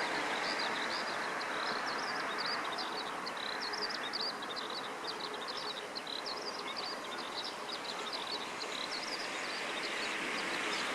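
Eastern spot-billed ducklings peeping, a dense run of short high chirps, over a steady hiss of background noise.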